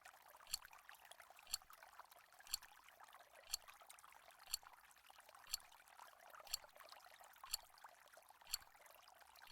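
Countdown timer ticking, one sharp click each second, nine ticks in all, over a faint steady hiss like running water.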